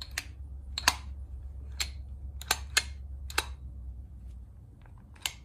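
About seven sharp, irregular clicks and taps of small parts being handled while a car starter motor and solenoid are worked on. A low steady hum runs underneath and fades out about four and a half seconds in.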